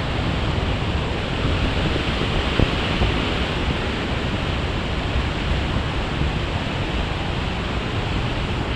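Loud, steady rush of falling water from a large waterfall, an even noise with no breaks.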